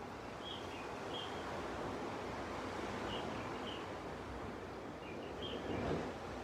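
Sea waves washing gently onto a beach in a steady wash that swells briefly near the end, with a small bird giving short, high chirps every second or so over it.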